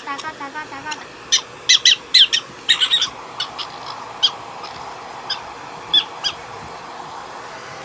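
Prairie dog giving short, sharp, high-pitched squeaking calls, several a second for about the first three seconds, then only a few scattered calls.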